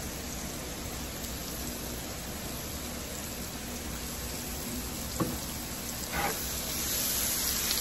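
Diced potatoes and onions sizzling in hot canola oil in a cast-iron skillet, a steady frying hiss. A sharp click comes about five seconds in, and the sizzle grows a little louder near the end.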